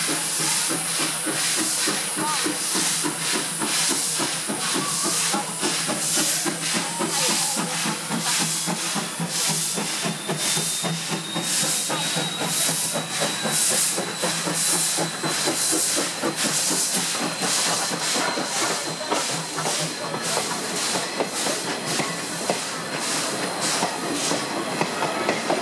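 CK124 steam locomotive pulling away, with an even run of exhaust chuffs over a steady hiss of steam.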